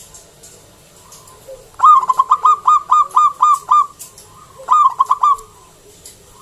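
Zebra dove (perkutut) calling loudly. About two seconds in comes a fast run of about nine clear cooing notes, and a second later a short burst of about three more.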